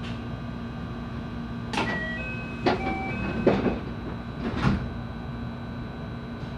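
Inside a JR West 223-series electric train car: a steady hum, broken by four loud knocks and clatters over about three seconds, with a few brief thin whistling tones between them.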